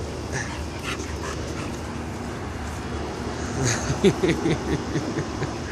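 A dog making a quick run of short vocal sounds about three and a half to four and a half seconds in, over steady background noise.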